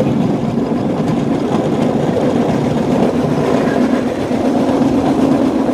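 Cambodian bamboo train (norry) running along the rails, its small engine running steadily.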